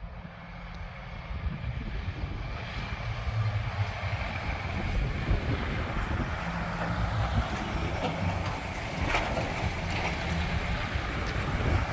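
Diesel truck engine running as the truck approaches, growing steadily louder.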